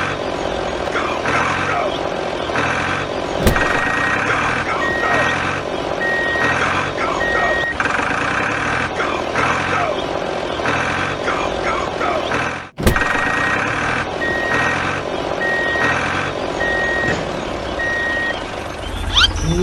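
Vehicle reversing alarm beeping in two runs of short, evenly spaced beeps, over a loud rhythmic pulsing sound. A sharp click comes about three and a half seconds in, and a brief dropout near the end.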